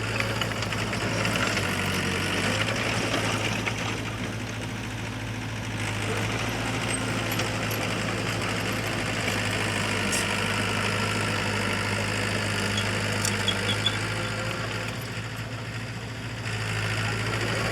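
Heavy earthmoving machine's diesel engine running steadily. It eases off twice and picks up again.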